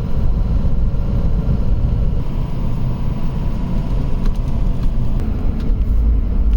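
Truck towing a dump trailer, driving with a steady low rumble of engine and road noise.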